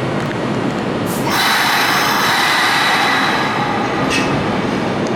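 Electric commuter train moving through a station platform with steady running noise. About a second in, a high hiss with squealing tones sets in for about two seconds, followed by a short squeal.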